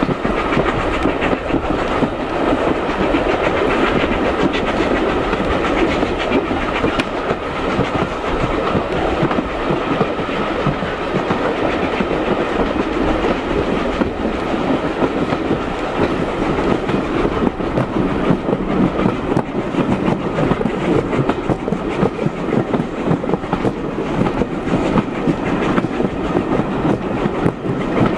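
Steam railway carriage running along the line, its wheels clicking over the rail joints with a steady rumble.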